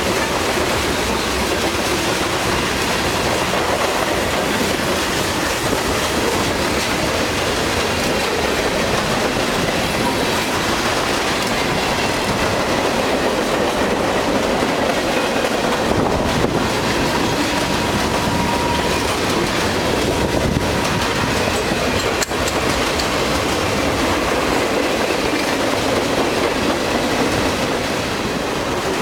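CSX freight train cars rolling past close by, a steady loud rumble of wheels on rail with clickety-clack over the rail joints. A faint thin wheel squeal rises out of it around the middle.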